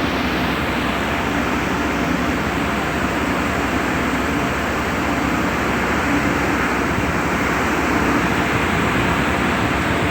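A vessel's engine running steadily under a constant rushing noise, with no distinct events.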